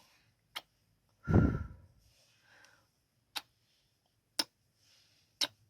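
Close-mic ASMR kissing sounds: four short, sharp lip smacks spread a second or so apart, and one louder kiss with a low thump about a second in, with faint breathy sounds between.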